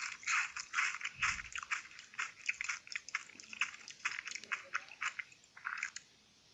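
Close-miked eating: a quick, irregular run of crisp bites and crunching chews that stops shortly before the end.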